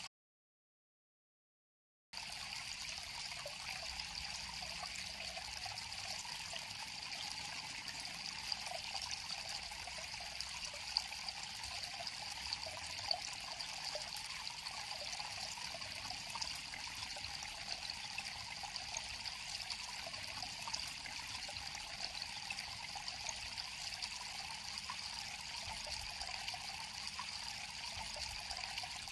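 River water flowing in a steady, trickling rush. It comes in after about two seconds of dead silence at the start.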